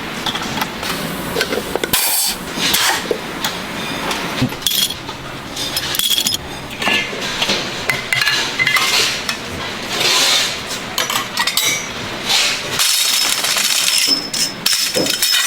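Metal workshop clatter: irregular hammer-like knocks and clinks of metal parts, with short bursts of scraping throughout.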